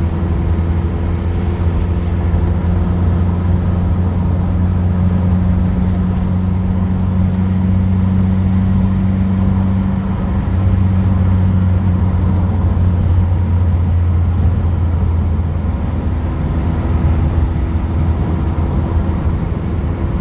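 Car engine and road noise heard from inside the cabin while driving along, a steady low drone whose note shifts slightly about ten seconds in.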